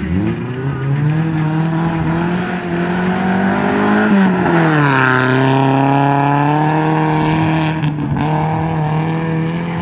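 Rally car engine at high revs as the car approaches, its pitch climbing, then dropping sharply about four seconds in as it passes close by. It then holds a steady lower note as the car speeds away down the dirt track.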